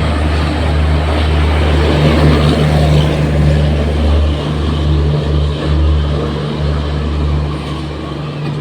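Train at a station platform making a steady low hum over a broad rumbling noise, easing a little near the end.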